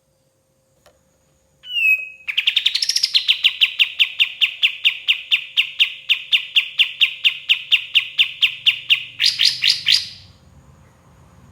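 Kapas tembak singing: a brief opening call, then a long rapid trill of evenly repeated notes, about six a second, ending in a few louder, higher-pitched notes.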